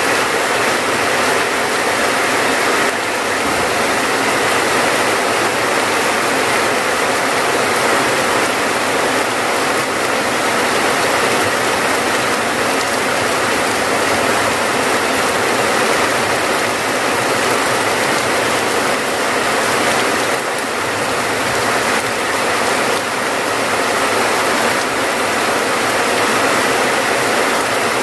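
Steady, dense rain: an even hiss of heavy rainfall that keeps a constant level throughout, with no separate drops or gaps.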